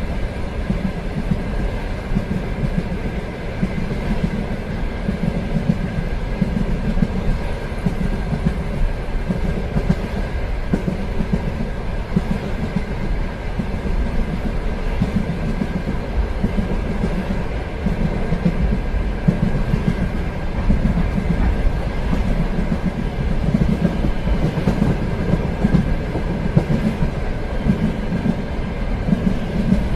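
Train running steadily on the rails, a continuous low rumble with a faint clickety-clack of the wheels and a thin steady whine, heard as from a moving railway carriage.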